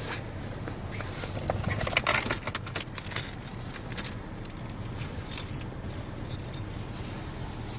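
Light metallic jingling and clicking, bunched between about two and three and a half seconds in with a few more around five seconds, over a steady low hum.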